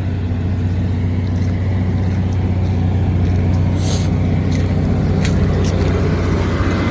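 Motorhome generator running steadily with an even, low engine hum, powering the RV during a utility power shutoff. A couple of brief clicks sound about midway.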